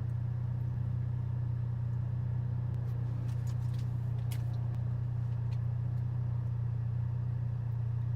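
Volkswagen MK7 GTI's turbocharged 2.0-litre four-cylinder, straight-piped with a catless downpipe, running at steady revs with a constant low drone.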